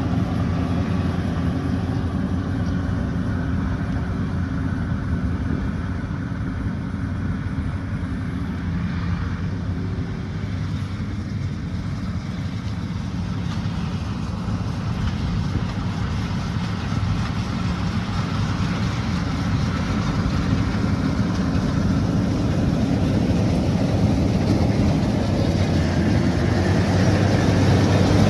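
Combine harvester's diesel engine running steadily, getting louder toward the end.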